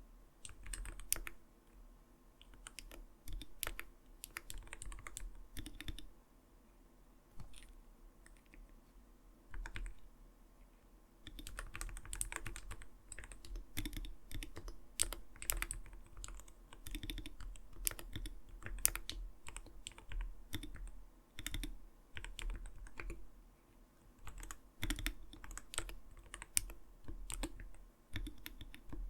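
Typing on an Arbiter Studio Polar 65 Phantom mechanical keyboard, a soft, not-too-light 'koto-koto' clack of keystrokes. It comes in quick runs with short pauses, thinning out for a few seconds about a fifth of the way in, then typing steadily and densely.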